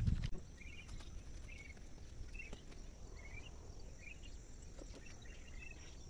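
A bird giving short chirps, repeated about once a second, over a quiet rural background. A brief low rumble of handling noise is heard right at the start.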